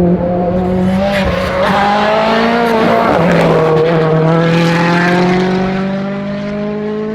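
A World Rally Car's turbocharged engine running hard on a rally stage. It holds a steady high note, drops in pitch about three seconds in as it shifts up, then climbs again as the car pulls away, with a few sharp pops in the first few seconds.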